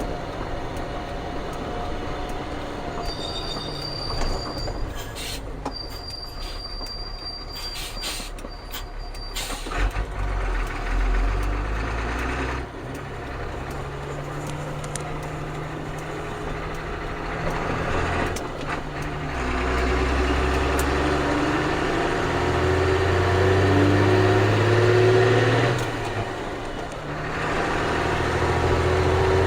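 Ford CF7000's 6.6L Brazil inline-six diesel heard from the cab while driving. The engine note climbs under acceleration, drops at a gear change a little past midway and again near the end, then climbs once more. In the first ten seconds a high thin squeal runs with a few sharp clicks.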